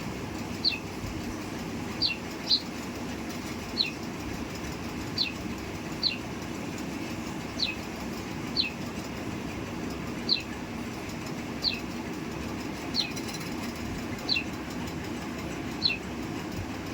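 A sparrow chirping: single short cheeps that drop in pitch, repeated about once a second, over a steady low rumble of background noise.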